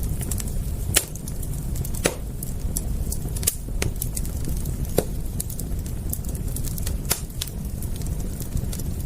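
Wood fire crackling: irregular sharp pops and snaps, the sharpest about 1, 2, 3.5, 5 and 7 seconds in, over a steady low rumble.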